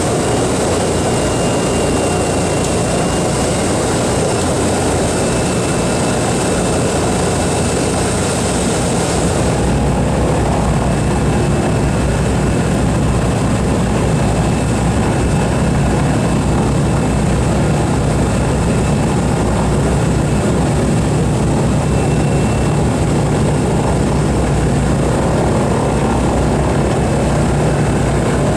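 Boeing B-29 Superfortress's four Wright R-3350 radial piston engines running loudly and steadily. About ten seconds in, the sound shifts: the high hiss falls away and a deeper engine hum comes up.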